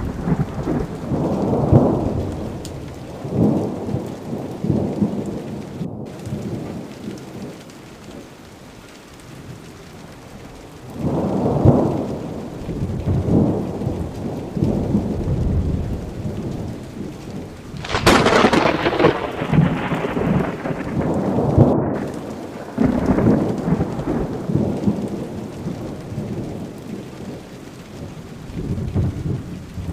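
Thunder rolling in repeated low rumbles over steady rain. There is a quieter lull about a third of the way in, and a sharp, close crack of thunder a little past halfway.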